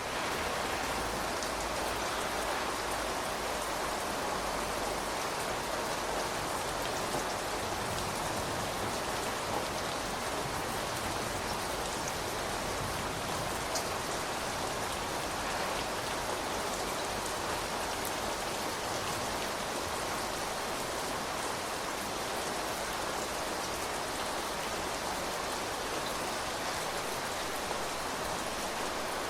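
Steady rain falling and pattering on surfaces, with a few individual drops ticking over the even hiss.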